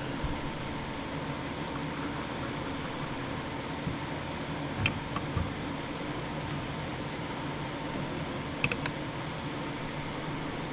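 A steady fan-like hum, with a few light clicks and taps from small tools or parts being handled at the workbench, about five seconds in and again near nine seconds.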